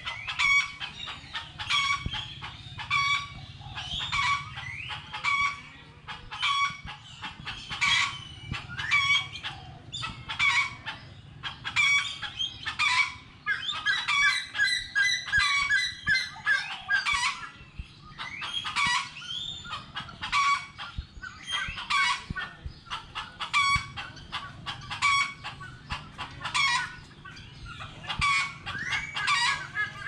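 Birds calling continuously: a dense chatter of short, sharp calls, several a second, with a run of quick, higher notes about halfway through.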